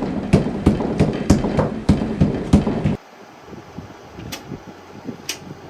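Rhythmic heavy thumps, about three a second, that cut off abruptly about three seconds in, followed by fainter scattered knocks and clicks.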